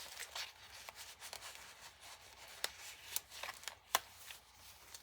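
Paper and fabric pages of a handmade junk journal being handled and turned: soft rustling with a few sharp clicks, the loudest about four seconds in.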